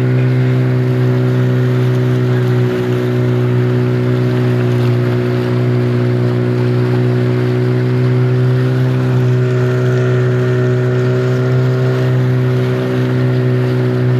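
Outboard motor of a rubber boat running steadily under way, holding one even pitch, with a hiss of noise behind it.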